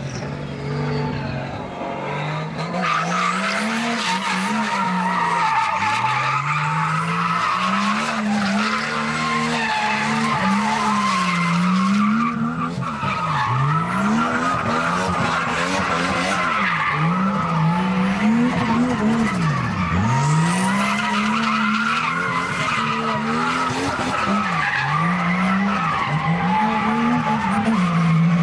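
Nissan Skyline R32 GTS-T's turbocharged 2.0-litre straight-six revving hard in a burnout, its pitch rising and falling over and over with sharp drops and recoveries, over the scrubbing hiss of spinning tyres.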